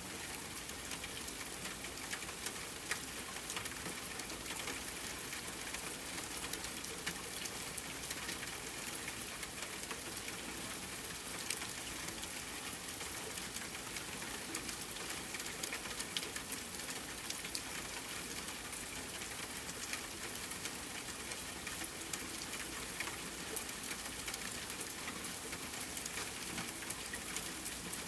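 Steady rain falling, a dense even patter of drops with an occasional louder single drop.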